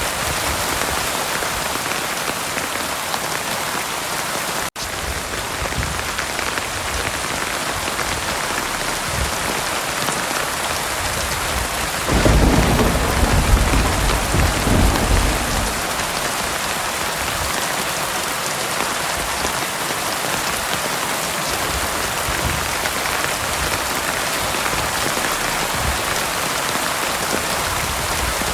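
Heavy rain falling steadily, with a rumble of thunder from about twelve to sixteen seconds in. A split-second gap in the rain comes about five seconds in.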